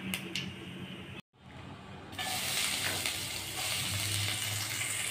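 Hot oil in a kadhai faintly crackling around cumin seeds, then, after a short break, a louder steady sizzle from about two seconds in as chopped onion and green chilli fry in the oil.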